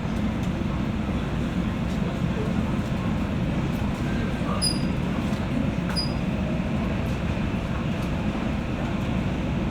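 Interior running noise of a JR West 201 series electric train, heard from the motor car above its armature chopper: a steady rumble of wheels and running gear on the rails, with a few faint clicks and two short high chirps about halfway through.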